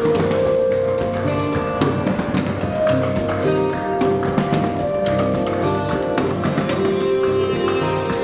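Instrumental band playing live: held pitched tones under a stream of sharp percussive taps.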